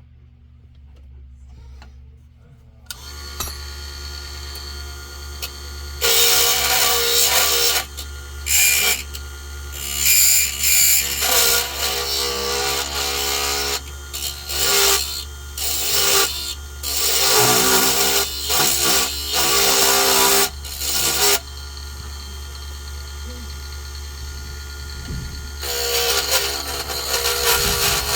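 Small wood lathe motor starting up about three seconds in and running with a steady hum, while a tool shapes the spinning wooden lure blank in loud, rough stretches that start and stop repeatedly.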